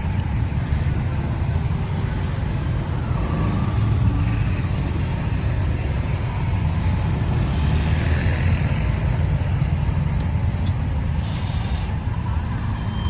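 Road traffic noise: vehicle engines and tyres making a steady low noise, with no single event standing out.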